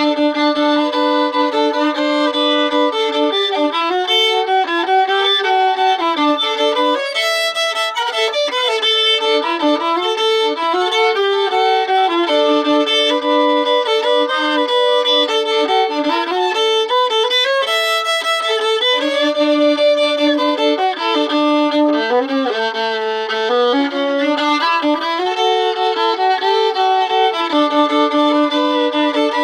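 Solo fiddle played by a learner practising a Cajun-style tune, bowing a continuous run of notes and often sounding two strings together, with a dip to its lowest note about 22 seconds in.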